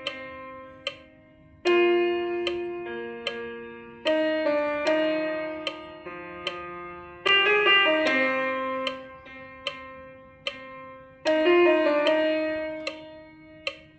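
Piano music: slow sustained chords struck every few seconds, each ringing and fading, with a few single higher notes between them.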